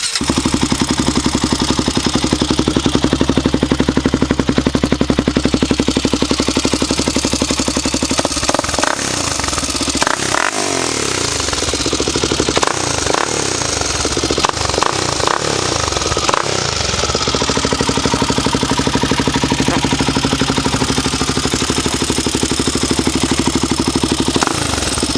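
Honda 400EX quad's single-cylinder four-stroke engine, bored to 416 cc with a Hot Cam and an FMF exhaust, fires up and idles. In the middle it is blipped with a few quick revs, then it settles back to a steady idle. The owner hears a ticking from it that he puts down to the timing being a little off.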